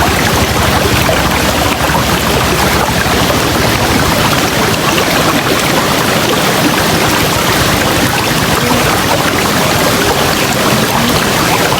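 A river flowing: a steady, loud rush of water with no breaks.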